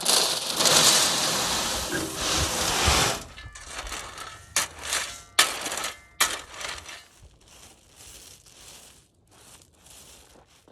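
Shovel work in sandy, gravelly road dirt while filling a hole: about three seconds of loud scraping and pouring, then a run of separate crunches and clicks of soil and stones, fading to quieter, evenly spaced crunching steps on the loose dirt near the end.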